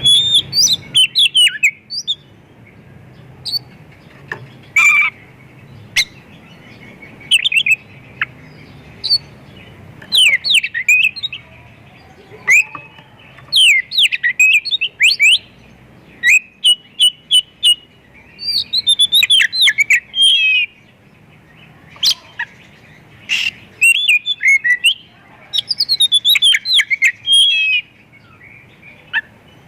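Oriental magpie-robin (kacer) singing, in bouts of rapid chirps and quick whistled phrases separated by short pauses. The song is packed with 'isian', the calls of other birds that it mimics.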